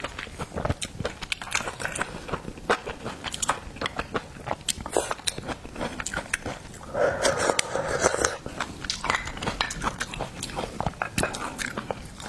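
Close-miked eating: crunchy bites and wet chewing of seafood, with many sharp clicks through the whole stretch. About seven seconds in comes a denser sound lasting about a second.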